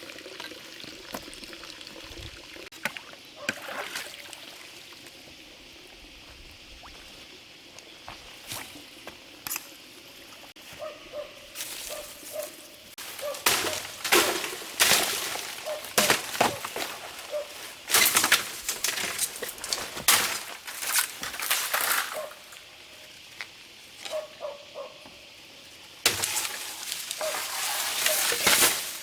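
Water being poured and sloshed: faint at first, then irregular splashes from about a third of the way in, denser near the end.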